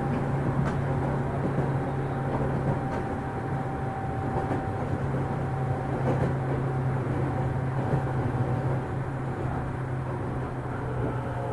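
Running sound heard inside a JR 205 series electric train's motor car: a steady rumble of wheels on rail with a steady hum from the car's external-fan traction motors.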